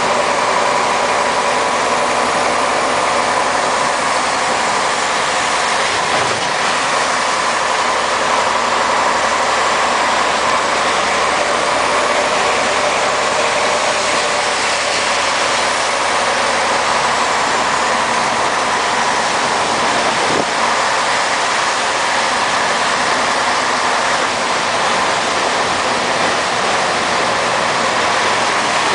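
Scania 110 Super truck's diesel engine running with a steady drone.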